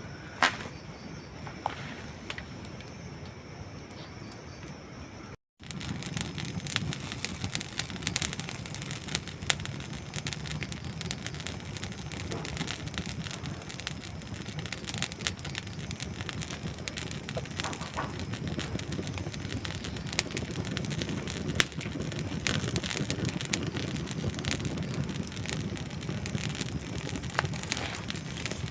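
Campfire of dry wood logs crackling and popping, with many sharp snaps over a steady hiss of flame. About five seconds in the sound cuts out for an instant, then comes back louder and denser, with a low rushing of the flames under the snaps.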